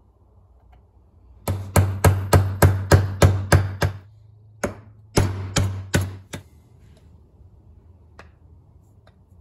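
Hammer blows on metal, seating a new U-joint in a Dana 30 axle shaft's yoke: a quick run of about ten ringing strikes at roughly four a second, a short pause, then four more.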